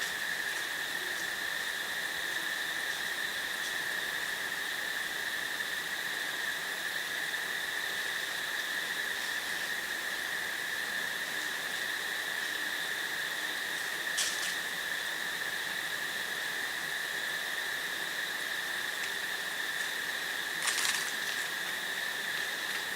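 Crickets trilling in a steady, unbroken high chorus. Two short, harsh calls cut through it, one about two-thirds of the way in and one near the end.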